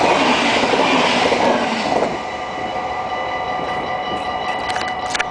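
Double-deck electric passenger train passing over a level crossing, its rushing wheel-and-rail noise cutting off about two seconds in as the last car clears. The crossing's warning bell keeps ringing steadily under it and after, with a few sharp clicks near the end.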